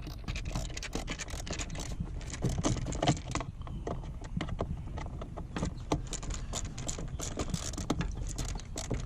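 Metal hand tools clinking, rattling and scraping in irregular clicks, as a screwdriver is sought out and handled.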